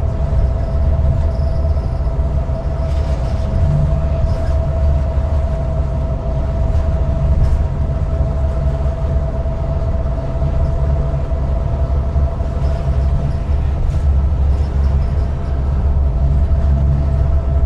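Reading & Northern GP38-2 diesel locomotive's EMD 16-cylinder two-stroke engine running steadily, with a deep, constant rumble and a steady whine above it.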